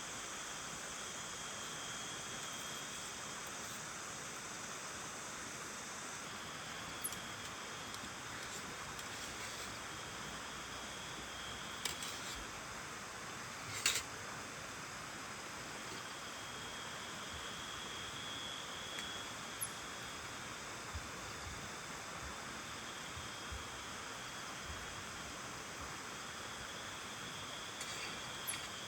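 Steady rain falling, an even hiss, with a faint high tone that comes and goes and a few sharp taps, the loudest about fourteen seconds in.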